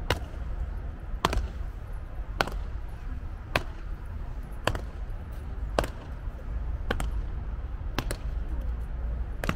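Boot heels striking hard paving at a slow, even march, about one sharp strike a second, over a steady low rumble.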